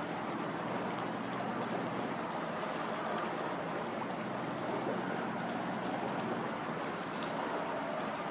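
MSC Bellissima cruise ship under way: a steady rushing of water with a faint low machinery hum underneath.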